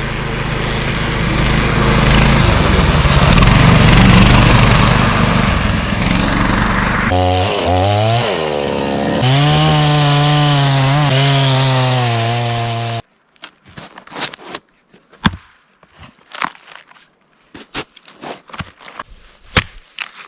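20-horsepower engine of a Rybak motorized snow tow running loud, its pitch rising and falling as it is revved, then holding steady. It cuts off suddenly about two-thirds of the way through, leaving scattered sharp clicks and crunches.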